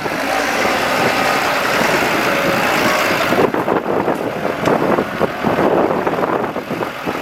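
Diesel engines of heavy farm vehicles running, a dense steady engine noise that turns duller about three and a half seconds in.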